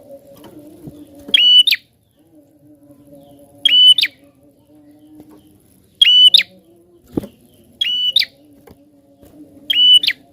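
Prenjak (prinia) calling: short, sharp, loud notes repeated five times, about every two seconds, over a faint steady low hum.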